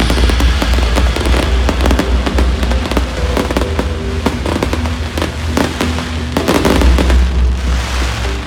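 Fireworks going off in a dense run of sharp cracks and pops over music with held notes.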